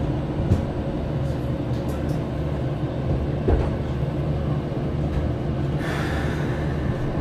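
Steady low hum of a Keikyu 1000-series commuter train's onboard equipment, heard from inside the passenger car while it stands at the platform. Two dull knocks come about half a second and three and a half seconds in, and a short hiss comes about six seconds in.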